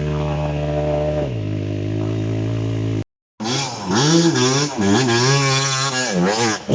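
Enduro dirt-bike engine running steadily, its pitch dropping about a second in. After a brief cut, a dirt bike is revved up and down again and again, as a rider working the throttle through a hard obstacle.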